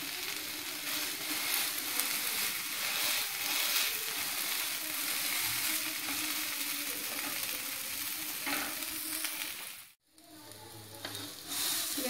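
Moong dal uttapam sizzling in oil on a hot tawa while a wooden spatula presses it down. The steady sizzle cuts out briefly about ten seconds in and comes back fainter.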